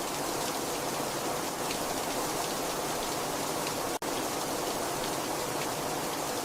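Very heavy rain falling steadily: a dense, even hiss of drops with faint individual splashes. There is a split-second dropout about four seconds in.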